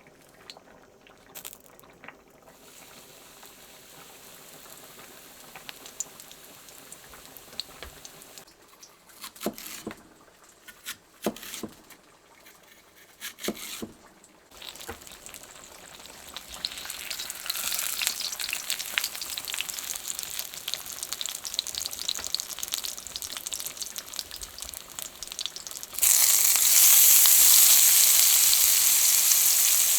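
Food frying in a pan with a sizzle that builds up gradually, then turns suddenly much louder about 26 seconds in. Before that, a few clicks and knocks of kitchen utensils sound over a low background.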